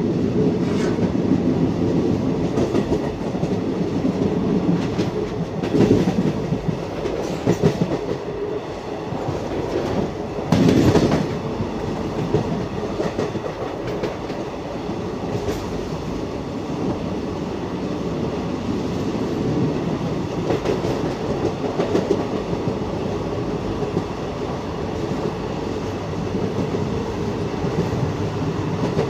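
Passenger train coach running at speed, heard at an open doorway: steady rumble with wheels clattering over the rail joints. A few louder knocks come through, and a heavier clatter lasting about a second comes about eleven seconds in.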